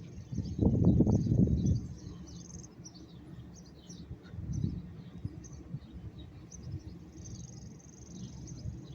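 Outdoor background sound: scattered short, high bird chirps over a low rumble. The rumble is loudest for about a second near the start.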